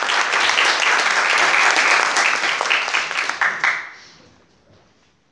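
Audience applauding in a concert hall, a dense patter of many hands that dies away about four seconds in.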